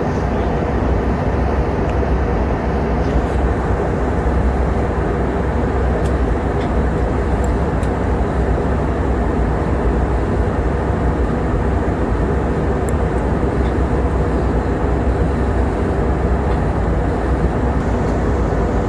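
Steady cabin noise of an airliner under way: an even rush of engine and airflow with a strong low hum, unchanging throughout.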